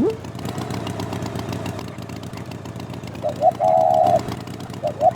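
Cartoon-style sound effects: a steady low engine-like rumble, with a quick downward-and-back-up pitch sweep at the start. About three seconds in, two short rising toots lead into a held horn-like tone, and the pattern starts again near the end.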